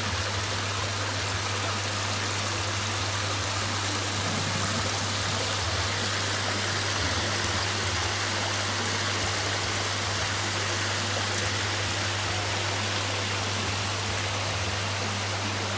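Spring water running steadily in a stream, an even rushing sound with no change in level.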